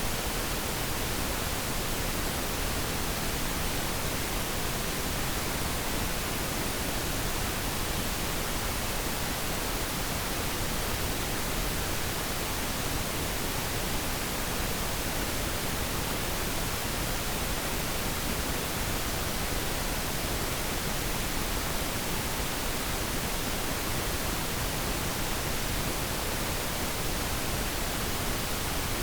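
Pink noise: a steady, even hiss with no changes, softer in the highs than white noise.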